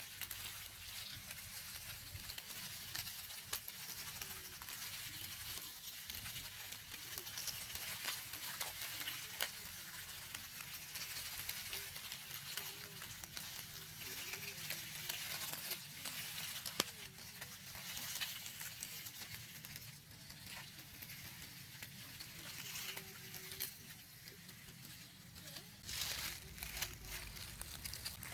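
Close-miked rustling and crackling of handled dry natural material: a steady, crisp hiss full of small clicks, louder for a moment a little before the end.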